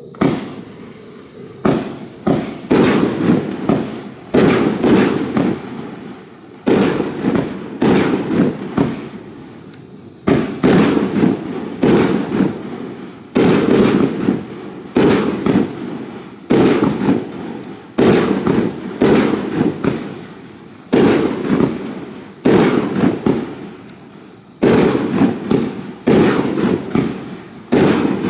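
25-shot 38 mm fireworks cake (Funke Colosso Triple Gold) firing shot after shot, roughly one sharp bang a second with short gaps, each shot trailing off before the next.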